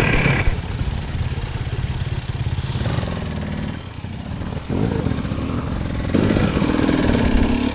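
Enduro dirt bike engine revving under load on a slippery hill climb. The throttle eases briefly about four seconds in, then opens up again and is louder near the end.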